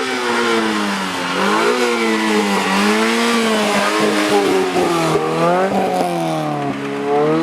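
Rally car engine running hard, its pitch rising and falling several times as the car accelerates and eases off.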